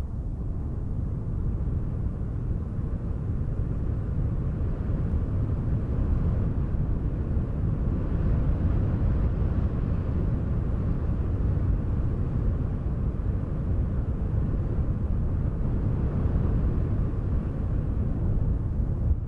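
Deep, steady wind noise without any tone in it, a little louder from about six seconds in.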